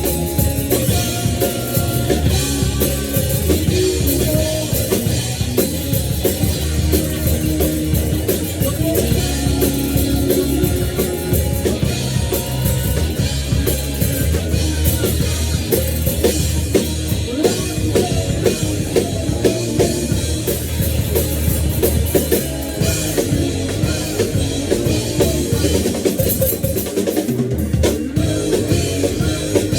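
Drum kit played along with a heavy metal backing track, a steady rock beat with bass drum over sustained pitched notes.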